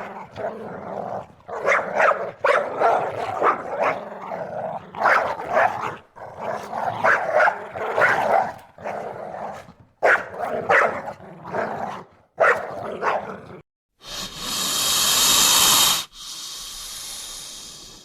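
A dog barking in quick short bursts, several barks a second, again and again. Near the end, a loud rush of hissing noise lasts about two seconds, then fainter hiss follows.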